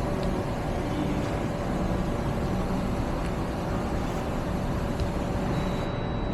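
Mercedes Sprinter's 3.0 L OM642 V6 diesel engine running steadily at idle.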